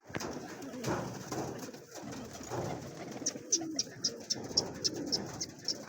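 Pigeons cooing in low murmurs. From about halfway through comes a quick run of short, high chirps, about three or four a second.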